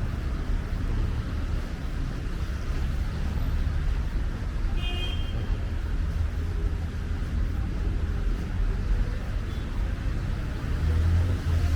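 Steady city traffic: cars running along the street in a continuous low rumble, with a brief high beep about five seconds in and one vehicle passing closer near the end.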